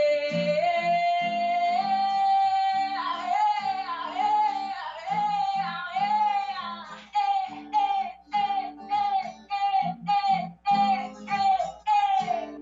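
A woman singing with acoustic guitar in a jazz-tinged Brazilian popular song: she holds one long high note that steps up in pitch, then sings a run of short falling phrases over plucked guitar notes.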